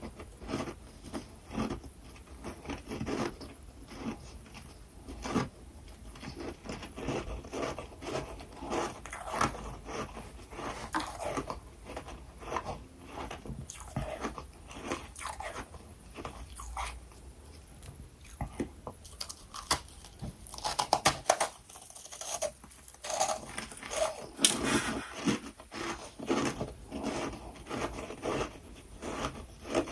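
Freezer frost being bitten and chewed close to the microphone: a continuous run of soft, crackly crunches, with louder, crisper bites about two-thirds of the way through.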